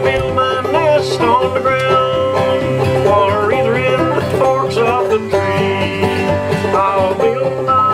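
Banjo and acoustic guitar playing an old-time Appalachian string tune together, the banjo picking the melody over the guitar's steady bass and chords.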